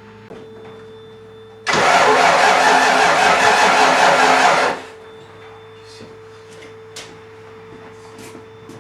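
Ford 5.0 L V8 cranking on the starter and firing for about three seconds, loud, then stopping abruptly. It is a struggling first-start attempt: the distributor sits about a tooth off, so the engine is not firing properly.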